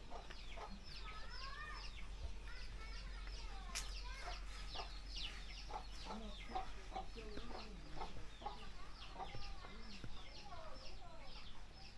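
Chickens clucking and calling, with many short overlapping calls.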